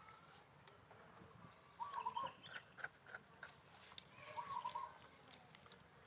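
A bird calling twice, each call a quick run of three short chirps, with faint clicks in between.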